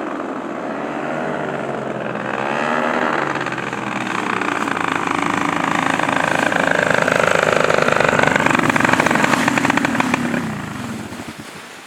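Paramotor engine and propeller running, its pitch wavering up and down as the throttle changes. It grows louder about halfway through, then fades away near the end.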